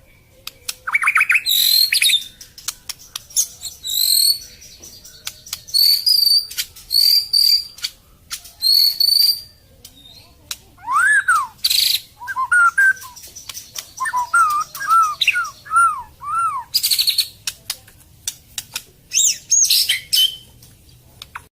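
White-rumped shama (murai batu, Medan type) singing a varied song of short, separate phrases: high chirps and quick trills, then, about halfway through, a run of lower, arching whistled notes, then high phrases again. The song is full of mimicked phrases (full isian).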